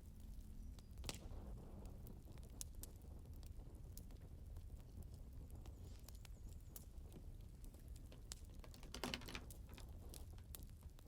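Firewood burning in a fireplace: a faint low rumble with scattered sharp crackles and pops, and a louder cluster of crackling about nine seconds in.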